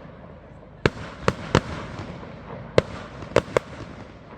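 Aerial fireworks bursting in a professional display: six sharp bangs in three groups, with crackle between them that dies away near the end.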